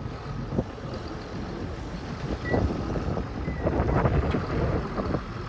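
John Deere 7720 FWA tractor's diesel engine running with a steady low rumble, with scattered clunks and knocks over it, the loudest about four seconds in.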